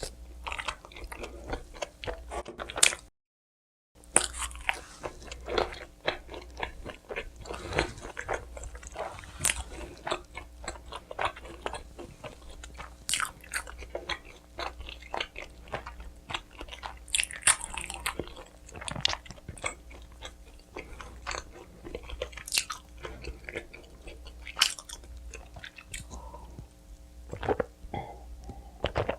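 Close-miked pizza eating: bites and steady chewing with many small crunchy clicks from the crust. There is a brief cut to dead silence about three seconds in.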